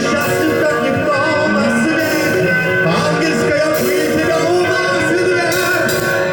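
Live rock band playing: electric guitars, bass and drums, with singing.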